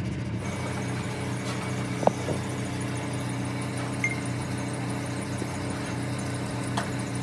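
A car engine idling with a steady hum, and a single sharp knock about two seconds in.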